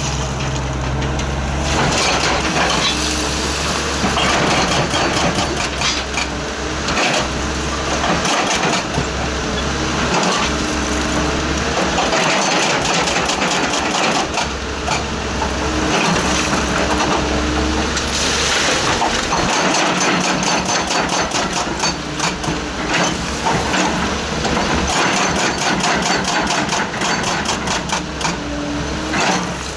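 Excavator working: its engine runs steadily under a fast, continuous clatter of knocks.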